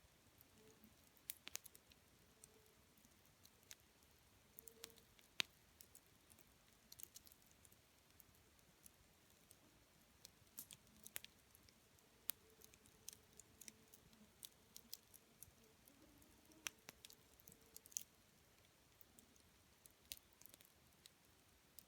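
Campfire wood burning with faint, irregular crackles and sharp pops at uneven intervals.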